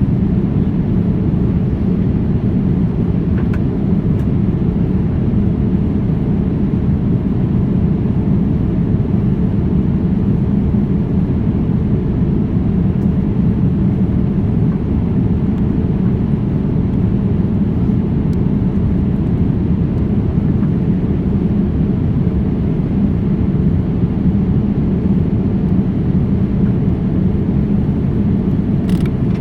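Jet airliner cabin noise with the engines running: a steady, loud low rumble that does not rise or fall.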